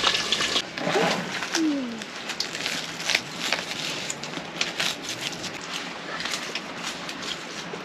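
Breaded pork cutlets sizzling in deep-frying oil, cut off abruptly about half a second in. Then come scattered light crackles and clicks, with a brief voice sound about a second in.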